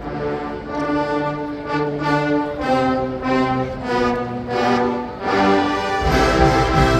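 A college marching band's brass section playing held chords that move step by step, with the low drums coming back in strongly about six seconds in.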